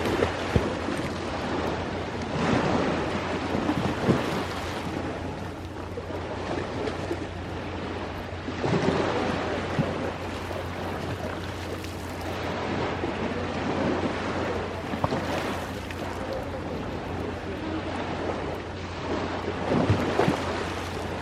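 Sea waves washing ashore, swelling and easing every few seconds, with a few sharp crackles from a wood bonfire.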